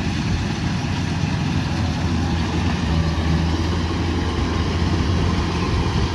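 Kubota DC105X combine harvester's diesel engine running steadily with a constant low hum.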